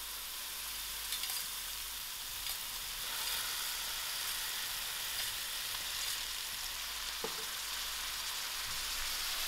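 Chicken pieces frying in oil and spice masala in a stainless steel pan, a steady sizzle, as canned tomato is spooned in.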